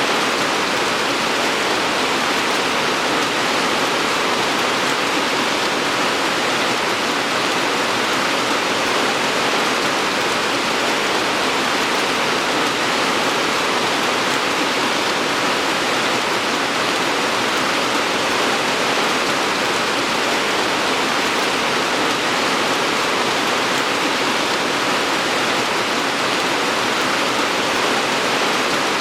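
Rain falling steadily, an even hiss with no single drops, gusts or thunder standing out.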